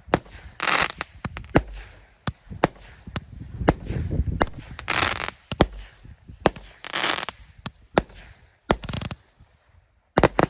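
A 49-shot fireworks battery (cake) firing its final volleys: an uneven, rapid series of sharp bangs, several followed by crackling, hissing bursts. It ends with two quick bangs near the end, the battery's last shots.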